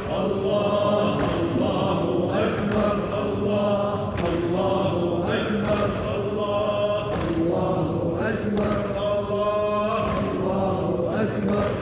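Men's voices chanting a Husseini latmiya, a Shia lament, in long sung lines, with a sharp thud every second or two.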